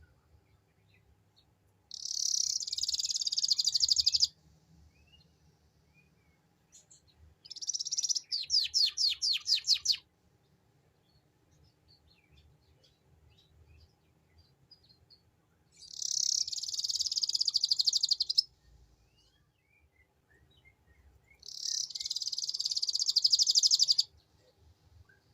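Domestic canary singing its rapid 'ngeriwik' trill in four high, dense bursts of about two to three seconds each, the second breaking into a quick run of separate repeated notes.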